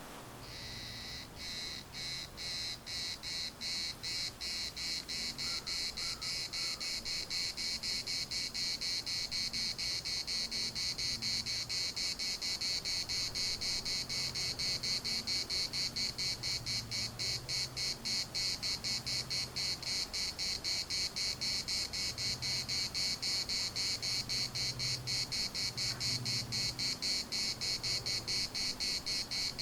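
Cicada singing: a rasping, pulsing buzz that starts about half a second in, swells over the first few seconds, then holds steady at several pulses a second.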